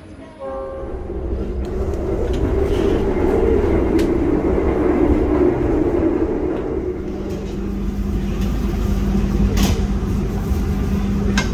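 A train running on rails: a steady rumble and rolling noise that swells about a second in, with a steady low hum joining about halfway through.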